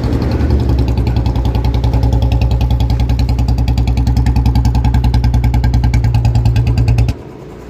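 Royal Enfield Bullet BS6 single-cylinder engine idling with an even, steady exhaust beat, its sound problem now fixed by the mechanic. About seven seconds in, the sound drops off sharply to a much quieter level.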